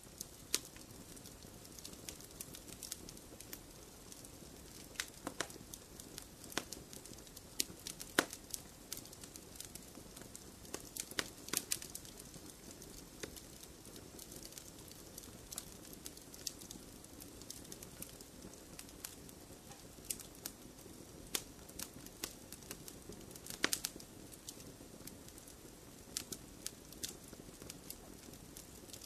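Fireplace fire crackling: irregular sharp pops and snaps, a few louder ones scattered through, over a low steady rush of burning.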